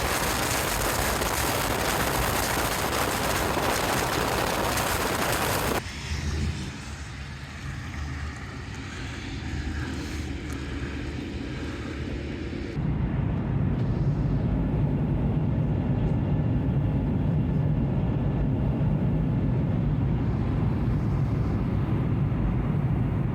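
Wind and road noise of a moving car. At first it is a loud, even rush of wind. It drops quieter about six seconds in, and from about thirteen seconds in becomes a steady low drone of the cabin.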